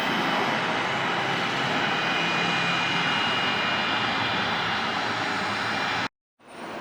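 Jet airliner engines running with a steady noise and a faint high whine. The sound cuts off suddenly about six seconds in, then comes back quieter.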